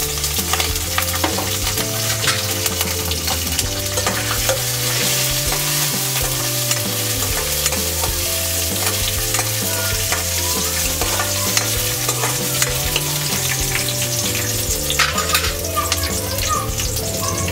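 Chopped green chillies and peanuts sizzling and spattering in hot ghee in an iron kadhai, with a steel ladle stirring them around the pan. Steady frying hiss with many small pops throughout.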